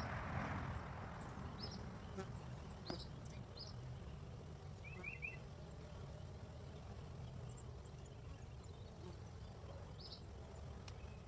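Honeybees buzzing faintly around a hive entrance, with only a few in flight as the colony has mostly gone inside during the eclipse's dimming. A low breeze rumble runs under it, a brief gust swells right at the start, and short bird chirps and a quick trill sound now and then.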